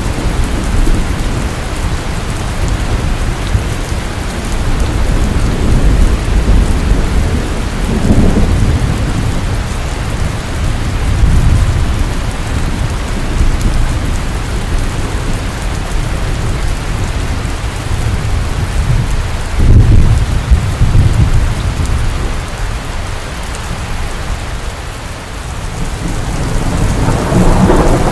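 Steady heavy rain falling at night, with rolling rumbles of thunder that swell and fade several times, the loudest about twenty seconds in.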